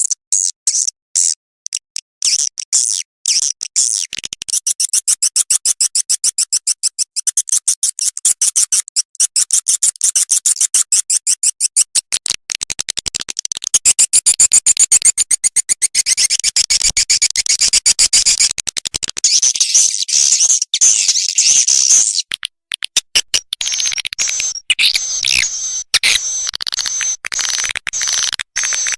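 Recorded twittering of edible-nest swiftlets: rapid, high-pitched chirps and clicks in dense trills with short breaks, packing closer together about halfway through. It is a swiftlet lure call, the kind played in swiftlet houses to draw birds in to roost and nest.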